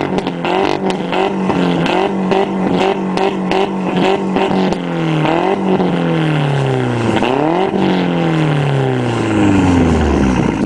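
VW Golf 1.8T turbo four-cylinder revving through a straight-through 76 mm exhaust with no resonator. The revs are held high with a stutter about three times a second, then drop, pick up twice more and wind steadily down.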